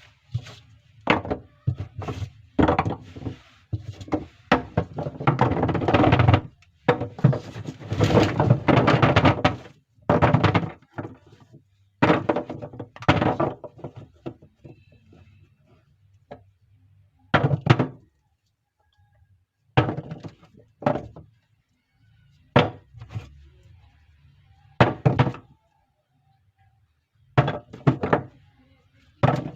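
Soap bars being unpacked by hand: packaging rustling and crinkling in long stretches, then separate short handling noises, with thunks and knocks as bars and boxes are set down or tapped.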